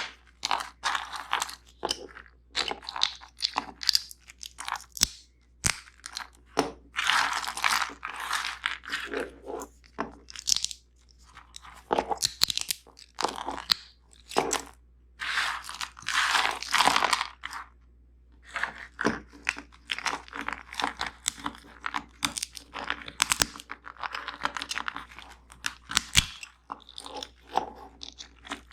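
Crunching and chewing of nuts and seeds, in crisp bursts up to about a second long with short pauses between.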